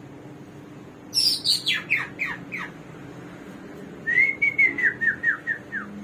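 Hwamei (Chinese hwamei laughingthrush, the 'garuwa' songbird) singing two loud whistled phrases. Each is a quick run of falling notes, the first dropping steeply from high to low about a second in, the second starting with a short held note and going on into a string of shorter falling notes.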